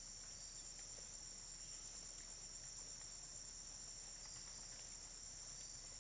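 Faint, steady, high-pitched drone of forest insects, without a break.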